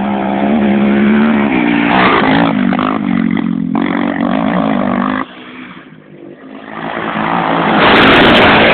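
Off-road race vehicle engines running with a steady drone that shifts in pitch. About five seconds in the sound drops away abruptly, then a vehicle approaches and passes close, loudest about eight seconds in.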